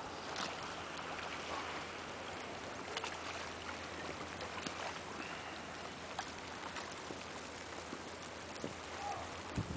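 Steady hiss of a snowstorm outdoors, with scattered light clicks and ticks throughout.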